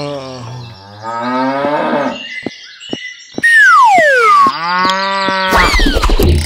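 A cow mooing: several long calls that slide down and up in pitch, with a sharp falling whistle-like tone about three and a half seconds in and a short noisy burst near the end.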